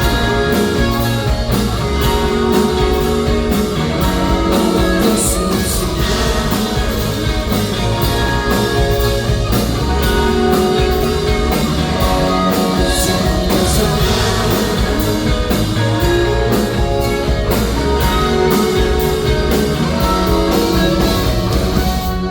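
Rock band playing live and loud: electric guitars and a drum kit with a steady beat.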